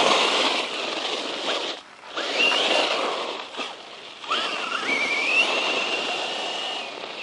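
Brushless electric motor of a 1/10 scale RC truck whining under throttle, its pitch rising and then holding twice, over a noisy rush of the truck running across the ground.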